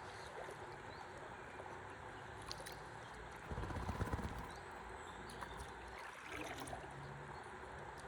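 Faint river water lapping and gurgling around a stand-up paddleboard as it drifts, with a brief louder low rumble about halfway through.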